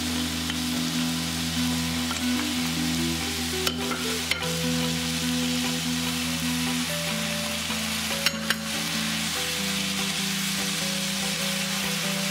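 Spicy marinated pork sizzling steadily in a pan as sliced carrot, onion and cabbage are scraped in and stirred with a wooden spatula, with a few sharp clacks about four and eight seconds in.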